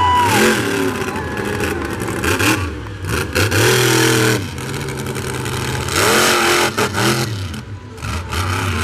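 The engine of Quad Chaos, a monster-truck-sized ATV, revs hard in repeated surges, its pitch rising and falling with each throttle blip.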